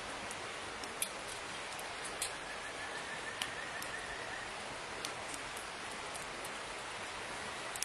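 Steady rain, with scattered individual drops landing close by as sharp ticks. A faint high thin tone holds for about two seconds near the middle.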